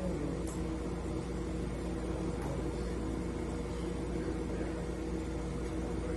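Remanufactured engine newly swapped into a 2005 Ford Mustang running at a steady idle.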